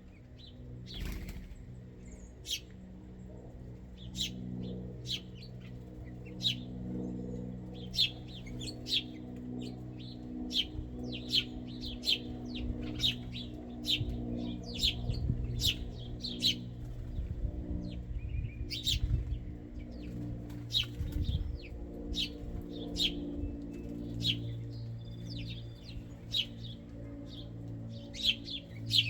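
Birds foraging at a ground feeder: a run of short, sharp high chirps and flutters, one or two a second, over a steady low hum.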